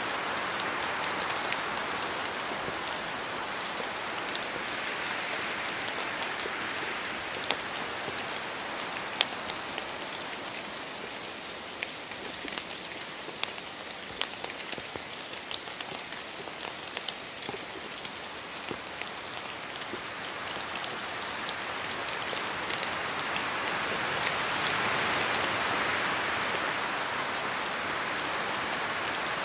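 Steady rain falling, a dense hiss with many sharp drops ticking on leaves and surfaces, swelling and easing slowly in waves.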